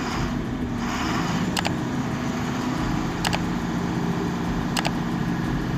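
A vehicle engine running steadily, with three sharp clicks about a second and a half apart.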